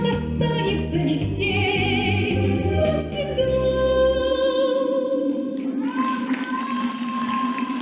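A woman singing a song over a backing track, with vibrato on the sustained notes. About four seconds in the bass of the accompaniment drops away, and the song ends on a long held high note over a hissing, wind-like backing.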